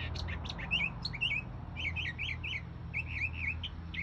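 Songbird singing a fast string of short, repeated chirping notes, over a steady low hum.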